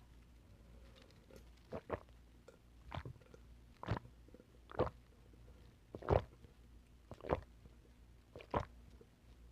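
A person chewing oysters, with short, sharp mouth clicks and smacks about once a second.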